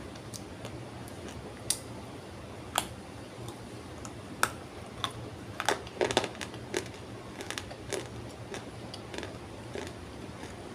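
Dried multani mitti (Fuller's earth) clay being crunched: sharp cracks and snaps at irregular intervals, with a quick run of them about six seconds in, over a steady low hum.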